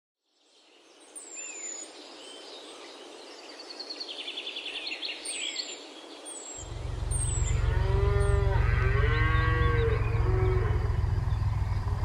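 Small birds chirp and trill faintly. About six and a half seconds in, a loud, steady low rumble starts, and cattle moo several times in long drawn-out calls.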